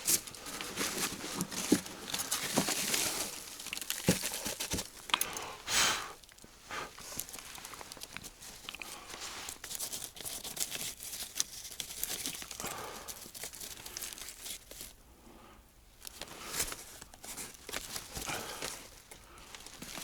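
Old paper rustling and crinkling as it is handled and leafed through, with a few light knocks in between.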